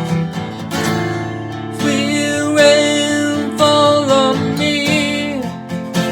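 Song accompaniment: strummed acoustic guitar chords, with a held, wavering melody line over them from about two seconds in.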